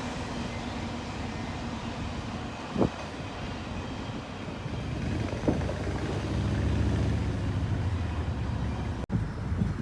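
Low vehicle rumble that swells in the middle and eases again, with two short sharp knocks, one about three seconds in and one about five and a half seconds in.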